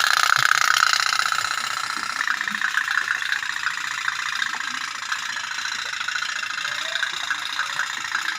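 Toy otok-otok (pop-pop) boat's candle-heated tin boiler engine putting, a rapid steady pulsing that shifts slightly in pitch about two seconds in.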